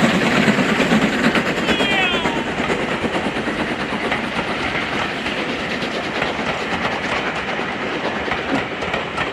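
Train carriages rolling past on a heritage steam railway, wheels clattering over the rail joints, the noise easing slowly. A short falling squeal about two seconds in.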